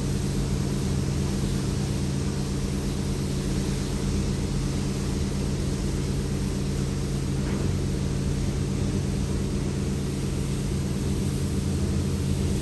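An engine running steadily at constant speed: an even, low drone with no revving or change in pitch.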